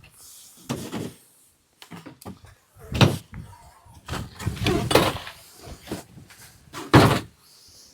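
A series of door slams and thuds: a light one about a second in, a loud slam about three seconds in, a cluster of knocks around five seconds, and another loud slam about seven seconds in.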